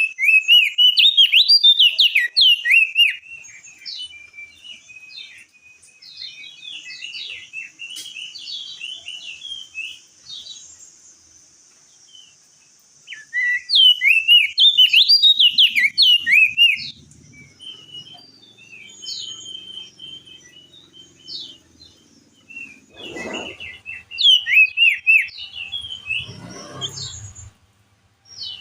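Crested white-eye (opior jambul) singing: three loud bouts of rapid, high chirping whistled notes with quieter twittering between them. Two low thuds sound near the end.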